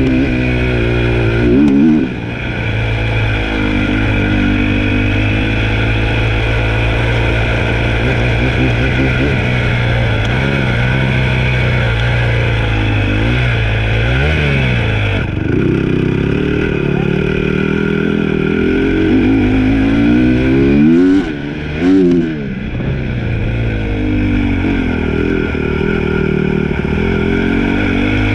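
Dirt bike engine running while being ridden, its revs rising and falling with the throttle. There are sharp revs about two seconds in, again about halfway through, and twice in quick succession about three quarters of the way through.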